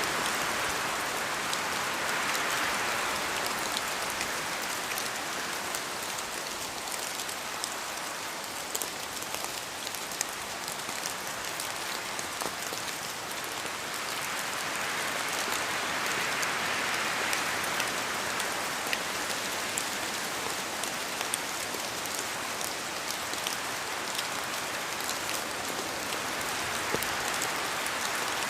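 Steady rain falling on a surface, with scattered individual drops ticking over the hiss, swelling and easing gently a few times.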